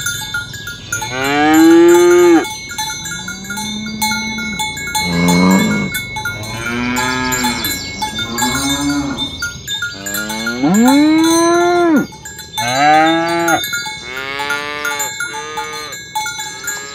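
Village cattle mooing one after another: a series of long moos, some overlapping, each bending up then down in pitch. One higher-pitched call comes about five seconds in.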